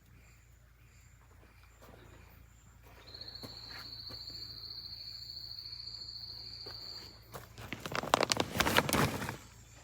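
An insect's steady high-pitched buzz starts about three seconds in and stops after about four seconds. Near the end, loud irregular crunching and rustling of footsteps through dry leaf litter.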